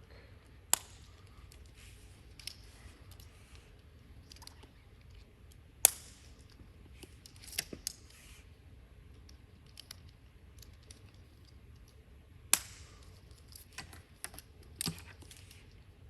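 Cable-management pieces clicking into place on the desk frame: about five sharp snaps a few seconds apart, with small handling taps between them.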